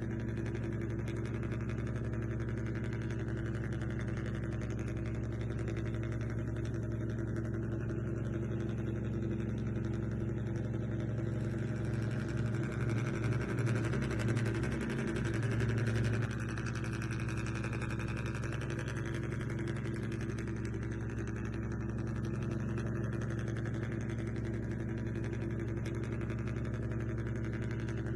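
A small motor running with a steady hum, getting louder and pulsing for a few seconds near the middle.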